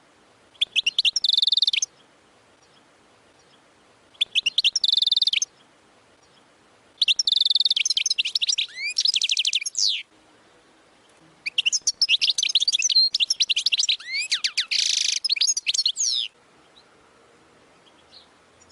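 European goldfinch singing in the Wadani song style: four phrases of quick, high, liquid trills and twitters, separated by short pauses. Each phrase is longer than the last, and the longest, near the end, includes a buzzy passage.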